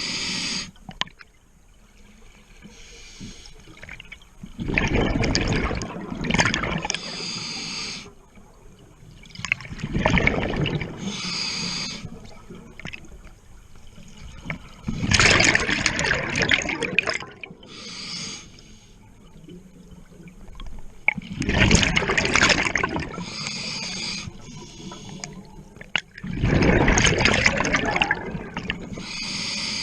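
Water splashing and sloshing in repeated bursts of a second or two, often in pairs, every few seconds, with quieter water noise between them.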